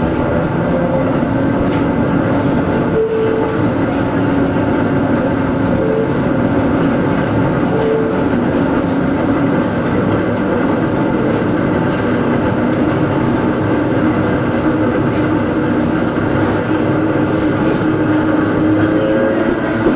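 Interior running sound of a Hakone Tozan Railway Moha 1 electric car with nose-suspended traction motors: steady motor and gear hum over wheel-and-rail rumble. Short high squeals come from the wheels, and the hum starts to rise in pitch near the end.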